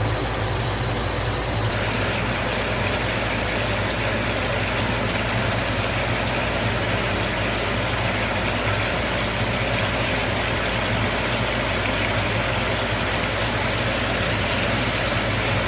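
Deboned chicken legs sizzling steadily in a cast-iron skillet on medium-high heat, over a constant low hum; the sizzle grows louder about two seconds in.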